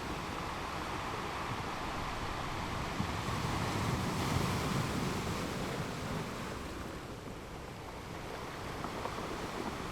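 Ocean waves breaking and washing on a shore, a steady rushing surf that swells to a louder wash about three to six seconds in, then eases.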